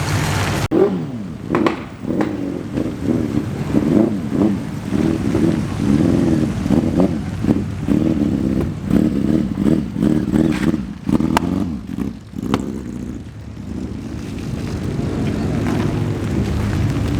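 American show car's engine running at low speed with uneven throttle blips, the rumble rising and falling, as the car drives off. An abrupt change in the sound less than a second in.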